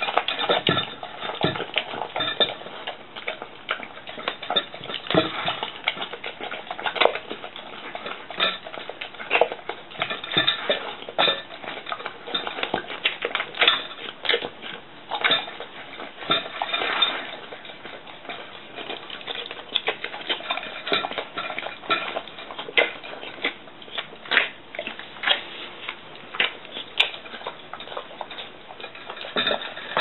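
A bull terrier eating natto rice from a dish: irregular clinks and knocks of the dish as it eats, with chewing and licking sounds.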